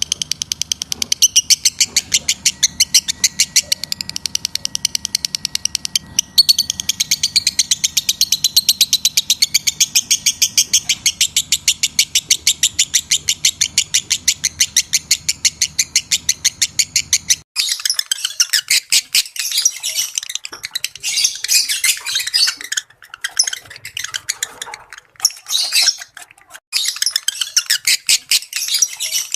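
Lovebirds in breeding condition chirping in a rapid, evenly spaced stream of high chirps. About seventeen seconds in the sound switches abruptly to a more irregular, broken-up chatter.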